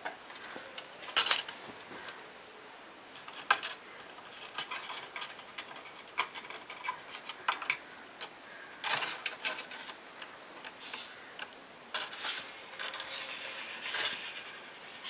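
Irregular light clicks, taps and scratching from a kitten playing, several loud ticks scattered among softer rustling.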